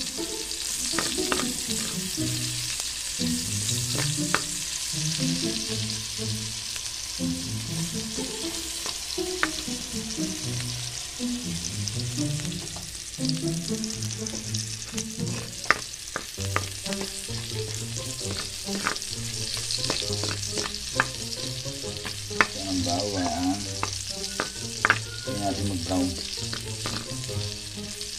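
Diced pork and chopped garlic sizzling in hot oil in a wok, stirred with a metal ladle that clicks against the pan a number of times.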